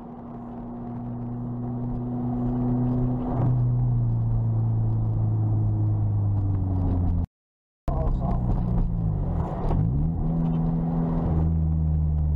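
Lotus sports car engine heard from inside the cabin, running steadily and getting louder over the first few seconds as the car accelerates. The sound cuts out for about half a second past the middle, then the engine note drops and climbs again.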